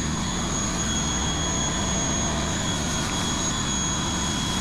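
A small high-speed electric motor runs with a steady high-pitched whine over an even hiss.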